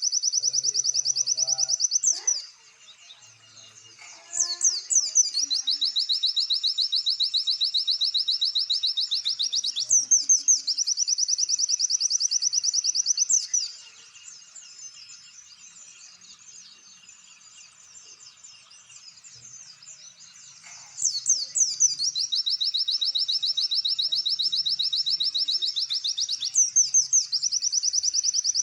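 Small songbird singing long, fast, high-pitched trills lasting several seconds each, linked by quick sharp chirps. The song breaks off twice, briefly about two seconds in and for several seconds midway, then resumes.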